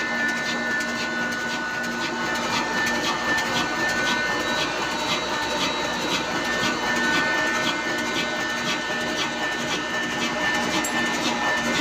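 Old black desi diesel engine running steadily while driving a flour mill (aata chakki), a continuous mechanical sound with a light regular ticking about twice a second.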